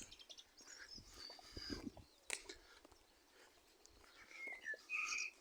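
Faint birdsong: a few short chirping calls, some sliding down in pitch, clearest near the end.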